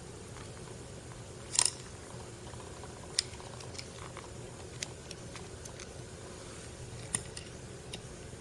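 Scattered light clicks and taps of small parts and tools being handled, the loudest about one and a half seconds in, over a steady low hum.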